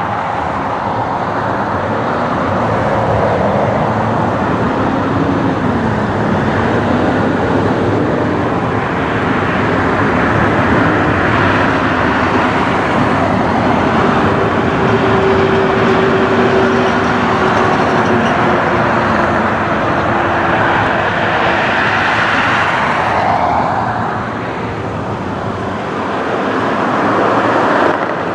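Jet airliner engines running loud and steady, a low tone sliding slowly in pitch underneath. The noise eases off briefly near the end, then swells again.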